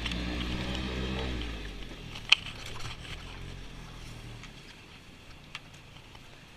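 An engine running steadily, then fading away over the first couple of seconds, followed by a single sharp click and a few faint ticks.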